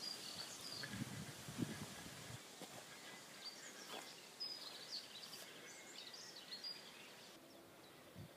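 Faint outdoor ambience with small birds giving short, high chirps now and then, and a few low, muffled thumps about a second in.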